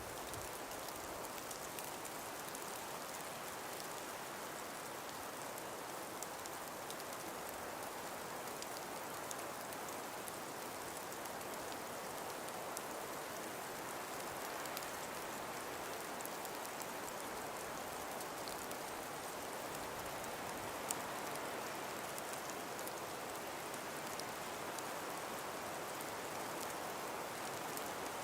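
Steady, even hiss of a calm breeze through a frosted winter forest, with faint scattered tiny ticks throughout and one slightly louder tick about three-quarters of the way through.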